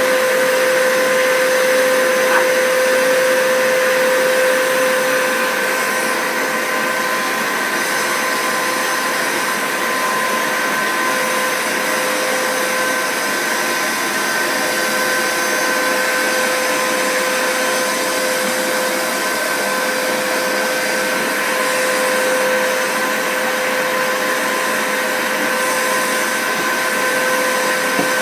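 Vacuum cleaner running without pause, its motor giving a steady whine of several pitches over a rushing noise.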